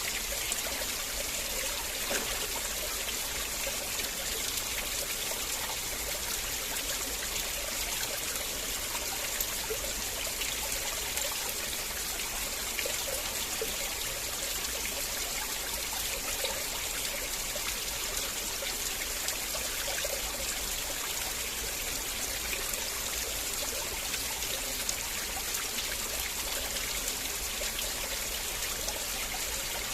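River water flowing steadily, a constant rushing and trickling with many small splashes.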